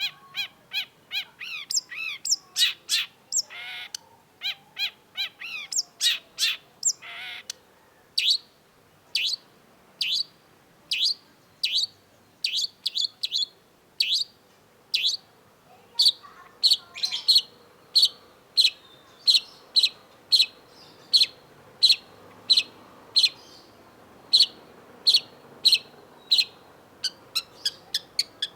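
Long-tailed shrike singing: a run of varied, warbling notes, then a long series of short, sharp, falling notes. These come about once a second at first and quicken to about two a second after the middle.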